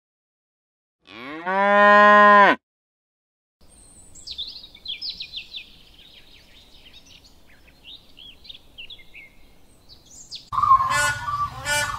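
A calf gives one long moo about a second in. Then soft, high bird chirps run for several seconds, and near the end a grey crowned crane starts loud, repeated honking calls.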